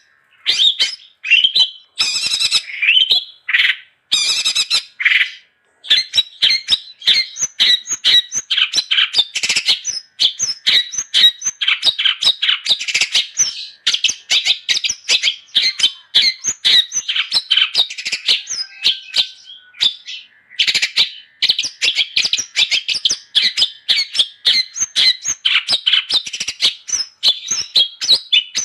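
Long-tailed shrike (cendet) singing in full voice. A few separate harsh, scratchy calls open it, and about six seconds in it breaks into a fast, nearly unbroken chattering song of quick notes.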